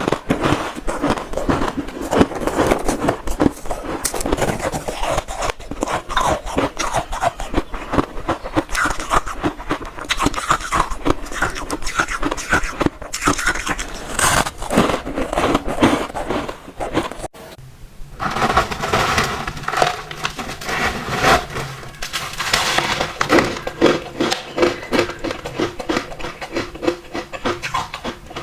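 Close-miked chewing and crunching of ice, a dense run of crackly crunches, with a short break about two-thirds of the way through.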